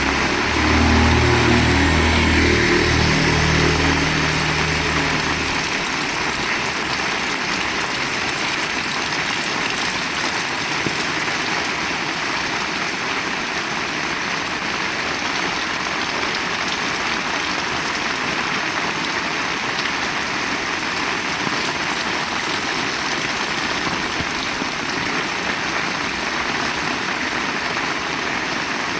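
Heavy rain falling steadily, an even hiss. A low rumble underlies the first six seconds or so and fades away.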